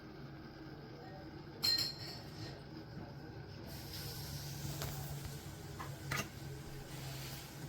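A single sharp clink with a brief high ring about two seconds in, then a couple of fainter knocks, over a low steady hum.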